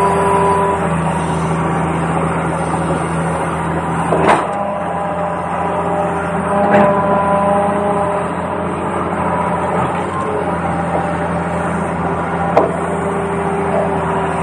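RC toy excavator running with a steady engine-like hum whose pitch shifts every few seconds, with three short sharp clicks.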